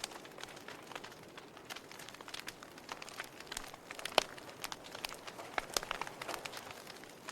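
Wood fire burning in a fireplace, crackling with irregular sharp pops and snaps over a soft steady hiss, one louder pop about four seconds in.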